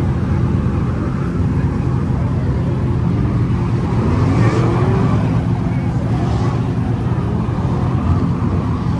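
Car engines running steadily, with one engine revving up in a rising sweep about four seconds in.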